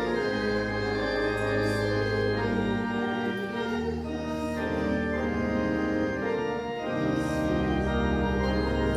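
Church organ playing slow, sustained chords over a deep bass line, the chords changing every second or two.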